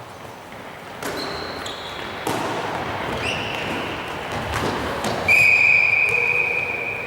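Tchoukball match play in a sports hall: the ball thuds against the floor and frame several times, and shoes squeak briefly. Just past the middle, a loud, steady high tone sets in and lasts nearly two seconds.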